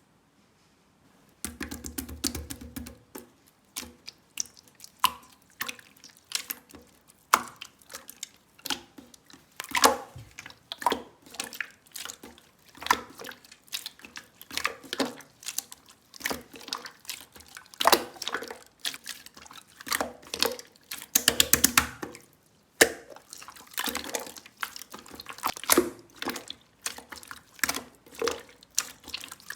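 Mixed slime worked by hand, giving irregular wet clicks and sticky pops as it is pressed and pulled, with a denser flurry of crackles about two-thirds of the way through. The sounds start about a second and a half in.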